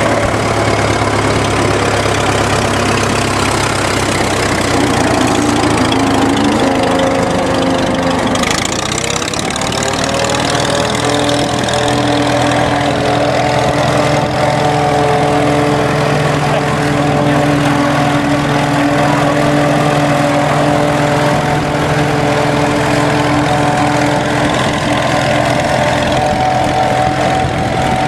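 1926 Fordson tractor's four-cylinder engine running on kerosene, with a pitched whine over it that rises about eight seconds in and then holds steady.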